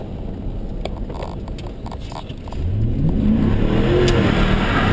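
Chevy 1500 pickup's engine revving hard: about two and a half seconds in it gets louder and climbs in pitch, then eases off slightly near the end, over a low rumble.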